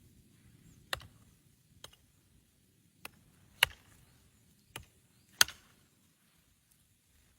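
Sharp knocks of a hand tool striking wood, six of them at uneven intervals, the fourth and sixth much louder than the rest.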